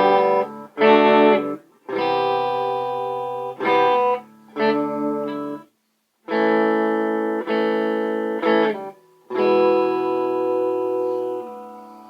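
Clean electric guitar chords from a Les Paul–style guitar with dual humbuckers through a Traynor YCV40 valve amp. They are strummed in short phrases that are choked off sharply, and the last chord rings out and fades near the end.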